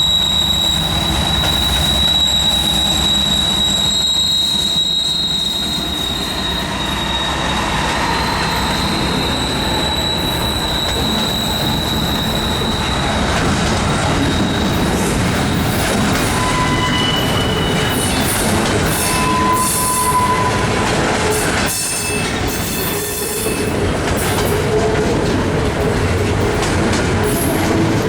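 Train cars rolling past with a steady rumble and rail clatter, their wheels squealing: one long, high, steady squeal for roughly the first half, then several shorter squeals at different pitches.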